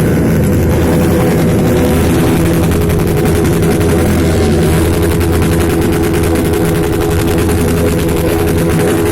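Motorcycle engine revved flat out and held against its rev limiter ('free limit'), running loud and steady with a fast stuttering pulse.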